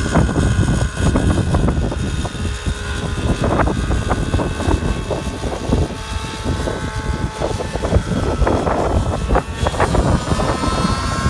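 Strong wind buffeting the microphone in gusts, over the thin, steady drone of a model airplane's engine in flight, which rises in pitch near the end.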